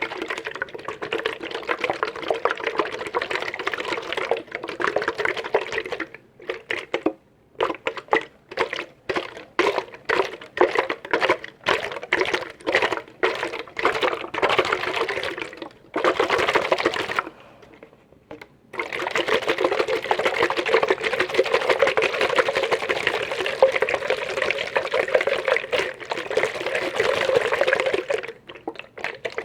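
Liquid moving in a container, made for ASMR: a continuous watery stretch, then about ten seconds of short separate splashes, one or two a second, then continuous again.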